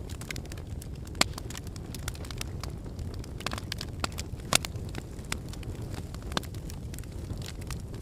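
Wood fire burning in a fireplace: a steady low rumble of the flames with irregular sharp crackles and pops from the logs, two of them louder, about a second in and about four and a half seconds in.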